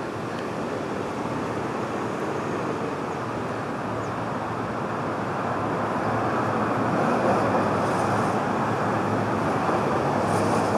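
Street traffic noise: a steady rush of passing vehicles that grows louder through the second half.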